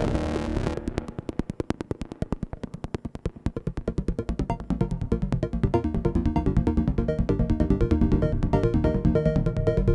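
Eurorack modular synthesizer: a Braids-style macro oscillator in an Expert Sleepers Disting EX, shaped by an envelope into a rapid stream of short plucked notes, run through a Make Noise Mimeophon delay. A dense held sound stops just under a second in. The plucks then grow louder and fuller toward the end as the echoes build.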